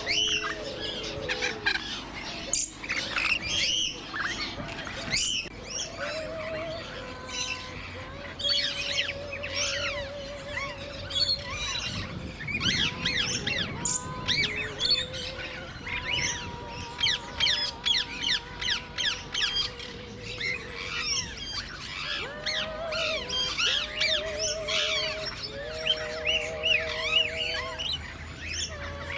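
A mixed flock of aviary birds chirping and squawking continuously, many short high chirps overlapping, with several longer wavering whistled notes.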